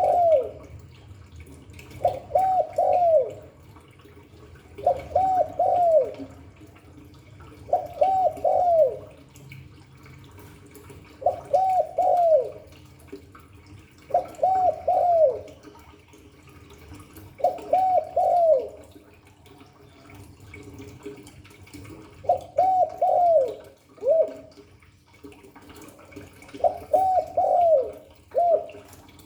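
Spotted dove cooing its calling song: a three-note phrase repeated about every three seconds, the last note of each phrase sliding down in pitch.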